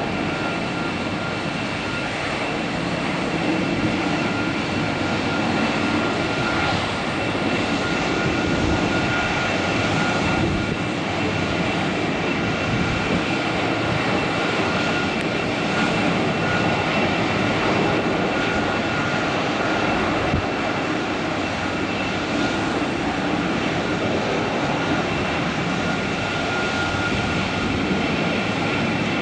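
Boeing 747-400 jet engines running steadily, a continuous rush of engine noise with a steady high-pitched whine over it.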